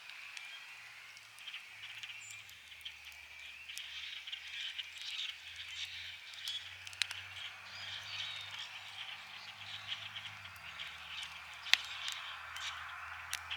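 Campfire crackling with scattered sharp pops, one loud pop near the end, over a dense chorus of calling frogs on a spring night.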